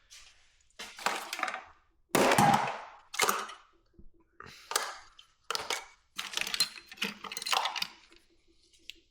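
Hand tools working on a motorcycle carburetor bank: a run of about eight sharp metallic clanks and clatters, each fading quickly, as the carburetors are pried and knocked apart.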